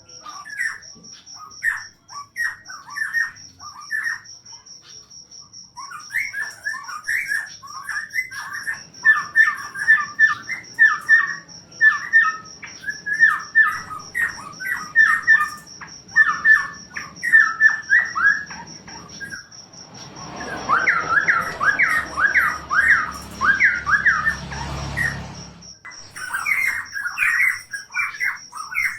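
Cucak pantai (cupan) songbird singing rapid, repeated chattering phrases, with a pause a few seconds in and a denser, louder run in the second half. Beneath it a cricket chirps as a steady, high, fast-pulsing trill.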